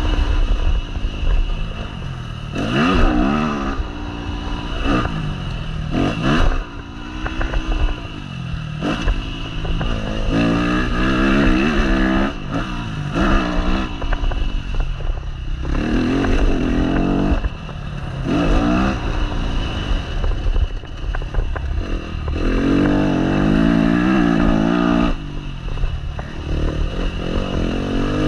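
Yamaha motocross bike engine heard onboard, revving hard and dropping off again and again as the throttle is opened and closed and the gears are worked. Rising bursts of revs come every few seconds, over a steady low rumble of wind buffeting the microphone.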